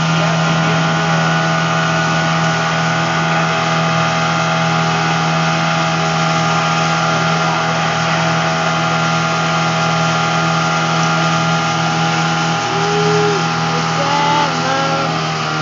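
Motorboat engine running at a steady speed, its pitch holding constant, over a haze of wind and water noise.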